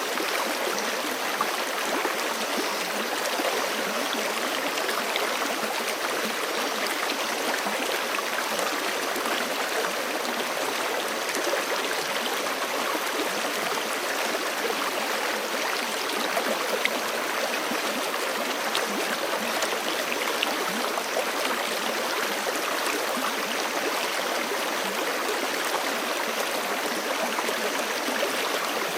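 Forest creek running over rocks: a steady, even rush and babble of flowing water.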